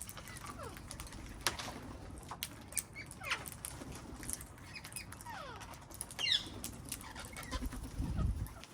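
Birds calling: a scatter of short, falling calls and sharp chirps. A low rumble comes in near the end.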